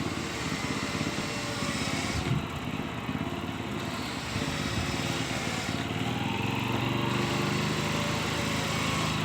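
Small engine running steadily, its drone growing stronger and steadier about six seconds in.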